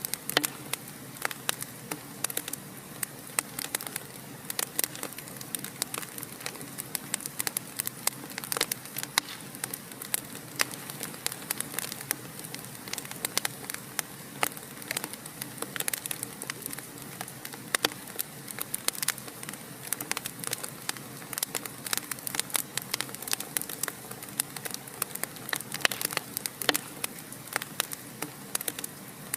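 Wood fire burning in a fireplace, crackling with frequent irregular sharp pops over a steady hiss.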